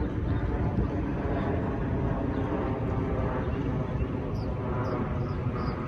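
Steady low rumble of a New Jersey Transit Atlantic City Line train at the station, with a few short high chirps near the end.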